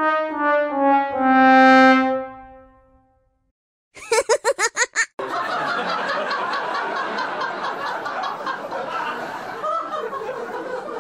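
Sad-trombone sound effect: four descending brass notes, the last one held long and fading. After a short pause comes a quick run of about eight high blips, then a crowd laughing and chattering.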